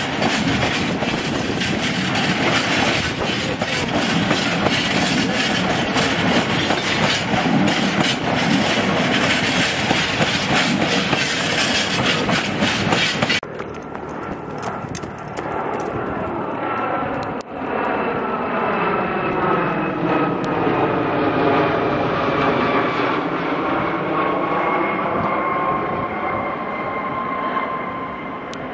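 Bogie hopper wagons rolling past close by: a steady rumble with a rapid clatter of wheels over rail joints. About halfway through it gives way to the drone of a Class 66 diesel locomotive's two-stroke V12 engine, its pitch dipping and then rising as it comes slowly over pointwork, with a thin whine near the end.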